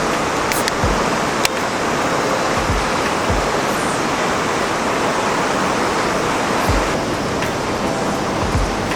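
Steady rush of a river flowing over rocks, with a sharp click about one and a half seconds in.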